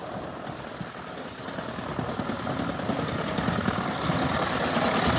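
Veteran car's engine running with a rapid, even chuffing of firing strokes, growing louder from about two seconds in.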